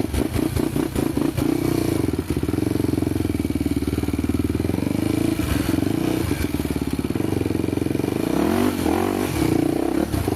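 Honda trail motorcycle engine running at low speed over rough ground, pulsing steadily, with the revs rising and falling a couple of times near the end.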